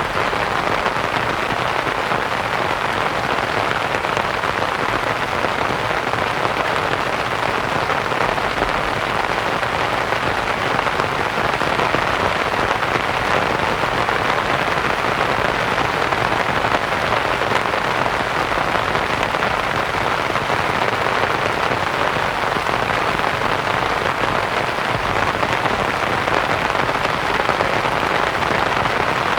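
Steady rain pattering on a canvas tent, blended with a soft, even white-noise hiss.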